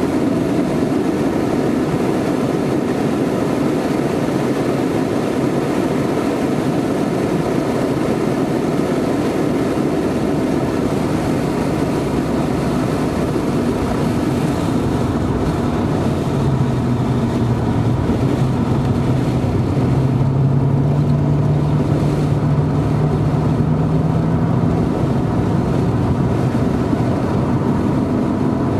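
Porsche 928's V8 engine running hard, heard from inside the cabin over steady road and wind noise. A little past halfway the engine note climbs slowly as the car accelerates, then eases off near the end.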